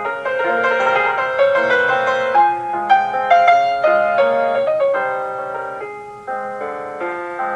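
Solo piano playing a tender classical piece, with a melody over a moving accompaniment; the music fades to a soft moment about six seconds in before a new phrase begins.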